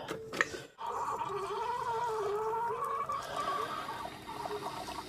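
Coffee maker brewing: a click, then its pump hums with a wavering pitch and gurgles as water is pushed through, struggling a little.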